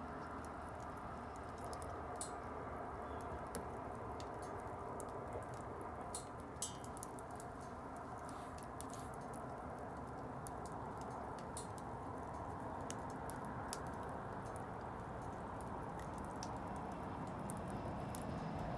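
Wood bonfire crackling: irregular sharp pops and snaps scattered over a steady low background noise.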